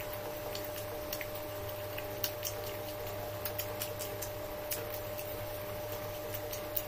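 Close-miked chewing of a sausage: scattered small wet mouth clicks and squishes, over a faint steady hum.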